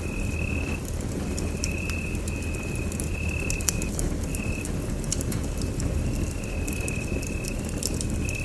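Wood fire in a fireplace crackling, with scattered sharp pops over a steady low rumble. A thin high whistling tone breaks in and out every second or so.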